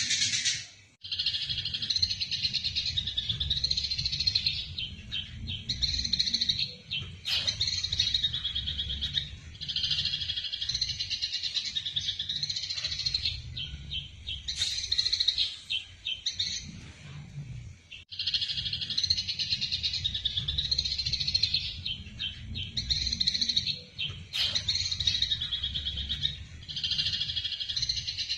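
Eurasian tree sparrows chattering in rapid, dense chirps, the excited calls of sparrows fighting. The chirps come in long bouts of several seconds, with a short lull a little past halfway, over a low rumble.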